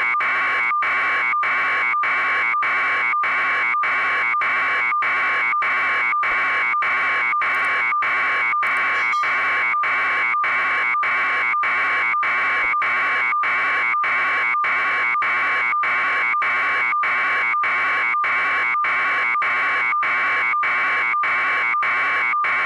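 Electronic alarm buzzer sounding continuously, a harsh buzzing tone that pulses about twice a second without change.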